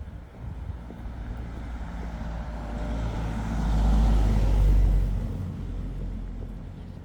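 A motor vehicle drives past, its engine and tyre noise swelling to a peak about four to five seconds in and then fading away.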